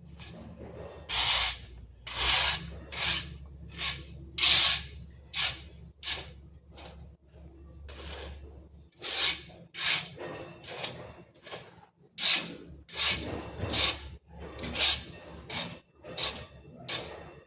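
A tool scraping or brushing in a long series of short, hissing strokes, irregular at roughly one or two a second.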